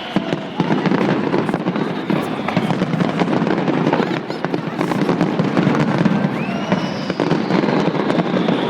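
Fireworks display: a dense, continuous barrage of rapid bangs and crackles, with a few short whistling rises about halfway through and near the end.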